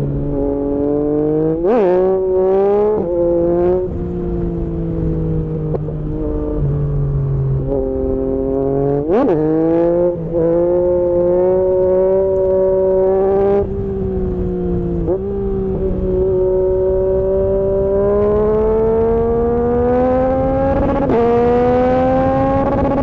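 Yamaha MT-09's three-cylinder engine ridden hard. The revs jump sharply in two quick throttle blips, about two seconds and nine seconds in. The pitch drops suddenly several times at the gear changes, and over the last third the revs climb slowly and steadily as the bike pulls in a high gear.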